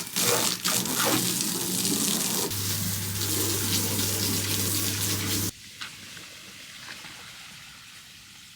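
Water gushing and splashing as a dirty canoe is washed down. A steady low hum joins about two and a half seconds in. Both stop abruptly about five and a half seconds in, leaving a faint hiss.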